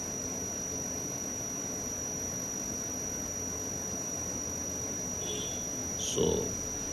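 Steady background hiss and low hum with a constant high-pitched whine, no distinct events, in a pause between spoken sentences.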